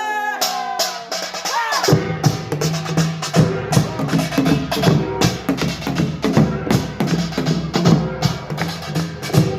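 Korean pungmul percussion band striking up: rapid clanging strokes begin about half a second in, and deep drum beats join at about two seconds to carry a fast, driving rhythm.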